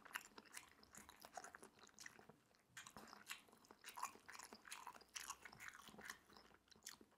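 Faint close-miked chewing of soft, chewy Korean rice cakes (tteokbokki) in spicy sauce: many small scattered mouth clicks and smacks.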